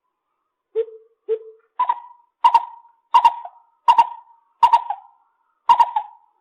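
Lesser coucal calling: a series of hollow notes, two lower ones, then six higher notes repeated at an even pace of about one and a half a second.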